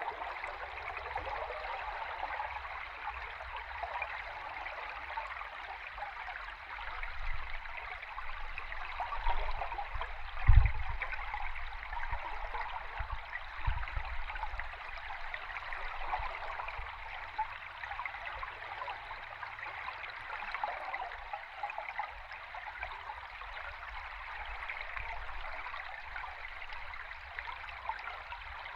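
Flowing stream water recorded underwater: a steady, dense bubbling rush. A deep low thump comes about ten seconds in, with a smaller one a few seconds later.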